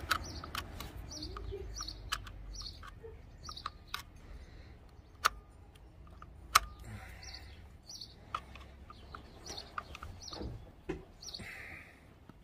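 A bird chirping a short high note over and over, with scattered sharp clicks and knocks, two of them much louder a little past the middle.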